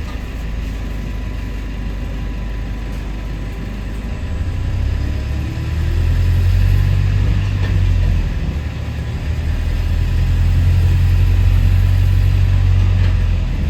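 Diesel engine of a London double-decker bus heard from on board, a loud low drone that swells twice, from about four to eight seconds in and again from about ten to thirteen seconds in, as the bus pulls and runs.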